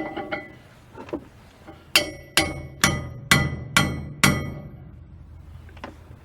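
A hammer striking metal six times in steady succession, about two blows a second, each blow ringing. A few lighter clinks come first.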